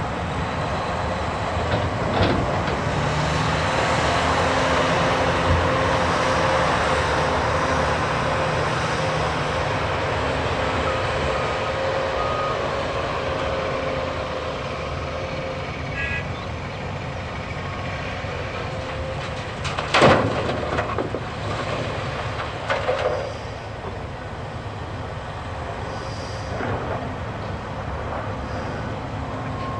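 Heavy diesel machinery running steadily: a large Cat excavator working beside a Cat 773G haul truck, with a held whine through the first half. About two-thirds of the way through comes a loud crash, then a smaller one a few seconds later, as the load is dropped into the truck's bed.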